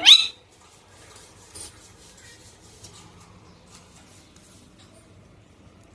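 A pet parrot's loud pitched call, bending up and down, breaks off just after the start; then faint scratching and rustling, with a few soft ticks.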